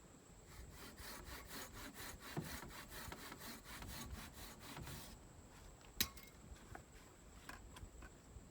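Hand saw cutting through wood in quick, even back-and-forth strokes, about four or five a second, which stop after about five seconds. A single sharp knock follows about a second later.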